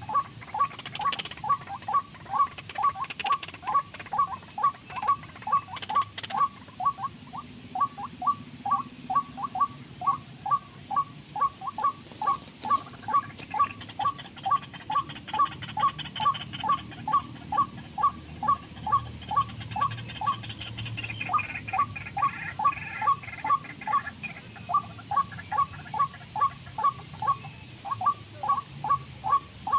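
A bird's short call note repeated steadily at about two to three notes a second, with a couple of brief breaks near the end.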